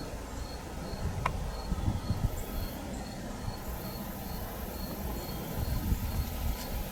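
Crickets chirping in an even rhythm of about two chirps a second, with a very high, steady insect trill that comes in briefly around two seconds and then again from about three and a half seconds on. There are low rumbling bumps on the microphone and one sharp click just after the first second.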